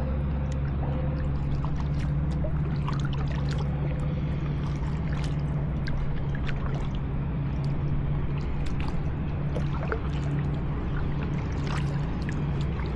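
Kayak paddle strokes: water splashing and dripping off the paddle blades in irregular spatters, over a steady low hum.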